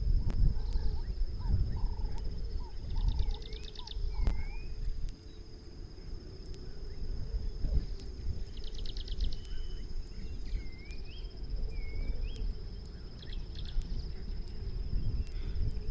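Small birds calling: short rapid trills and rising chirps, over a steady high-pitched insect drone and a low rumble. Faint repeated lower notes sound in the first few seconds.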